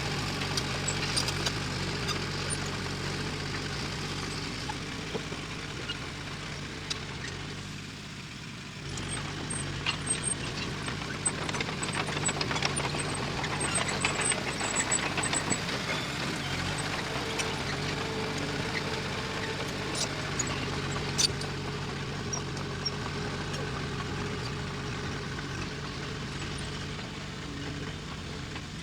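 Diesel engine of heavy earthmoving machinery running steadily, with scattered sharp metallic clanks and knocks. It eases off briefly about eight seconds in, then picks up again.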